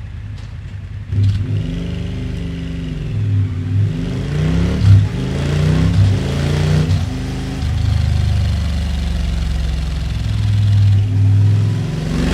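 Suzuki V-Strom 1000's 1037 cc V-twin engine running through a Delkevic 14-inch oval stainless steel silencer, idling and then revved again and again, its pitch rising and falling with each blip, then held at higher revs near the end.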